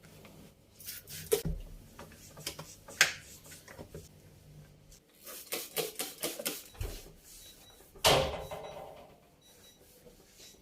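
Items being handled while a refrigerator is cleaned and organised: a run of irregular light clicks and taps, then a louder clack with a short ring about eight seconds in.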